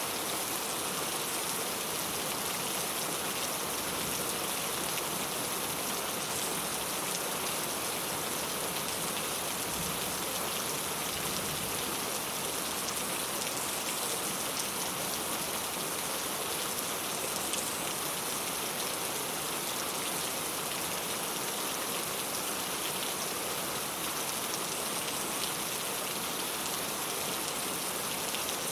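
Steady rain falling on a clay tile roof, an even patter of drops that does not let up.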